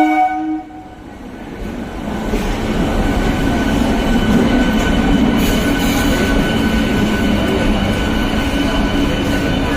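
MMTS suburban electric multiple-unit train running along the platform. Its noise builds over the first few seconds, then holds steady with a constant hum and light wheel noise.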